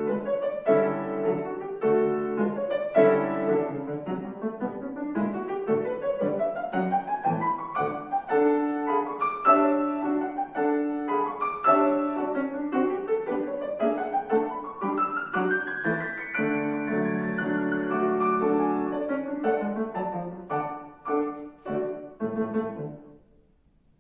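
Acoustic piano playing a classical piece, with fast rising scale runs sweeping up the keyboard twice. The piece ends about a second before the end, leaving near silence.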